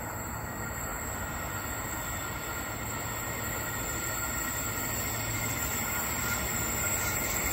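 An approaching train heard before it comes into sight: a steady rumble slowly growing louder, with thin steady high-pitched tones over it.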